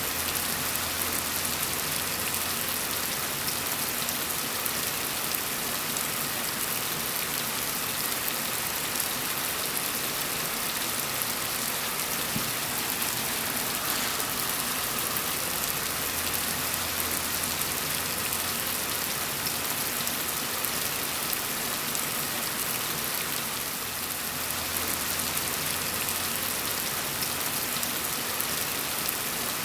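Steady rain falling, an even continuous hiss of many drops with no lulls.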